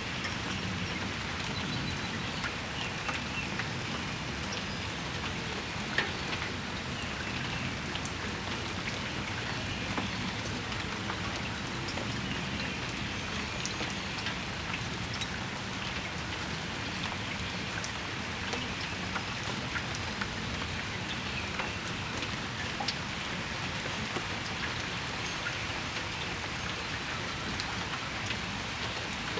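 Steady rain shower falling, a constant hiss with many individual drops ticking close by; one louder drop lands about six seconds in.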